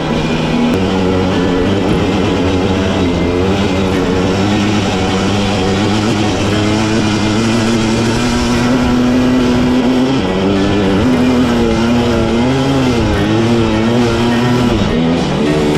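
Dirt bike engine running under changing throttle, its pitch rising and falling repeatedly in the second half.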